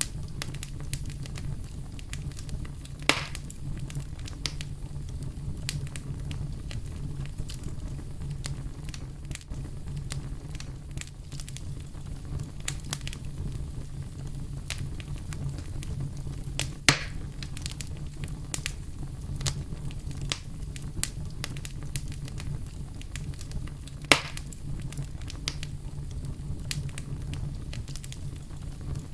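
Wood fire burning in a fireplace: a steady low rumble with frequent small crackles and three loud, sharp pops, about 3, 17 and 24 seconds in.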